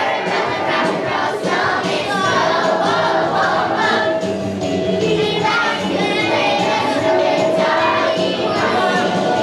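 A choir of young children singing a Christmas song over instrumental accompaniment with a steady beat.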